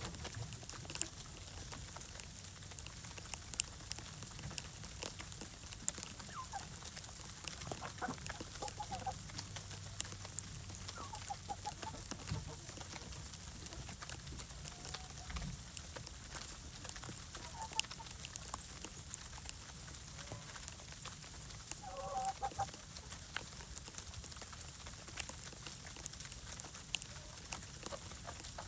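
Hens clucking softly now and then in short, scattered calls, with many small clicks and ticks throughout.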